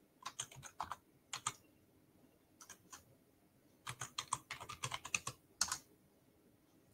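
Typing on a computer keyboard: three quick runs of key clicks with short pauses between, the longest run about four to six seconds in.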